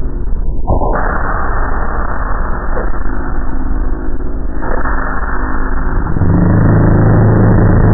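Yamaha FJR1300 motorcycle's inline-four engine running at road speed under heavy wind rush, heard from a helmet-mounted camera. There is a brief knock under a second in, and the engine note becomes stronger and steadier about six seconds in.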